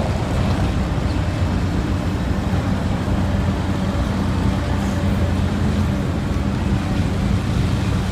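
Heavy diesel engines of mining excavators and haul trucks running at a steady drone.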